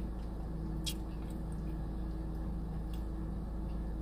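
Steady low electrical-type hum, with a single sharp click about a second in and a few fainter ticks.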